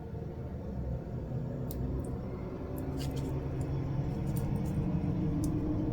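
Soft crinkles and light clicks of jelly vinyl and a small bag tag with double-sided tape being handled and pressed into place, over a steady low hum.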